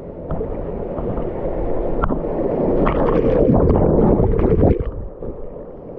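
Rushing, churning river water and splashing around a person sliding feet-first down a rock chute of a waterfall. It grows louder to a peak about three seconds in, then drops off suddenly about five seconds in.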